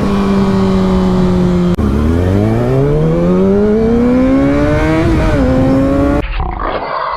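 Sport motorcycle engine under way: it holds a steady, slightly falling pitch, drops suddenly about two seconds in, then climbs steadily as the bike accelerates, with a brief dip before rising again. About six seconds in it cuts off to a muffled rushing noise that fades away.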